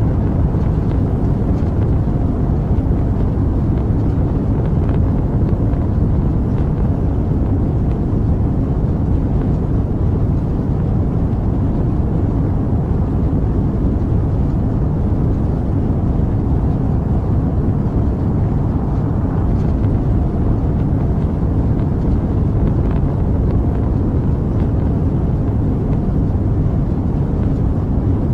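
Rocket engines giving a continuous deep rumble, steady in level throughout, with the sound weighted heavily to the low end and little above it.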